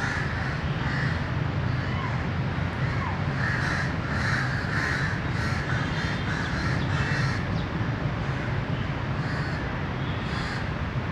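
Crows cawing over and over in harsh clusters, over a steady low background hum.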